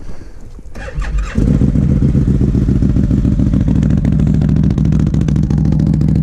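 Can-Am ATV engine just after a cold start, running "not happy". About a second and a half in it picks up sharply and then runs loud and steady.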